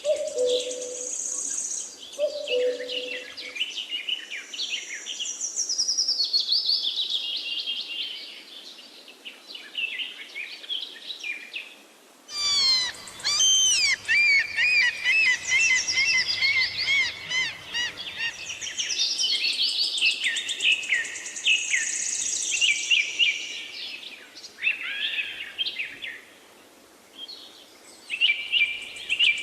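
Songbirds singing, several quick chirps and trills overlapping. About twelve seconds in the sound changes abruptly to a different set of bird songs, as at a cut between recordings.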